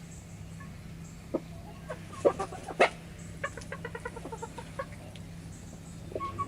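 Backyard chickens clucking, with a quick run of short clucks in the middle. A few sharp taps of beaks pecking at food sound over a low steady hum.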